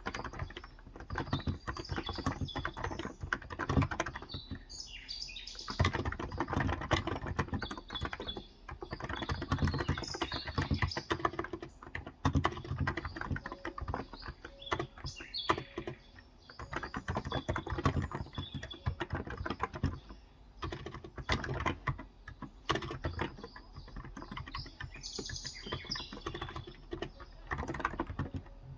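Steady, fast typing on a Cox Endeavor electrostatic capacitive tenkeyless keyboard with light 35 g keys, a rapid run of key clicks with brief pauses. Birds chirp now and then in the background.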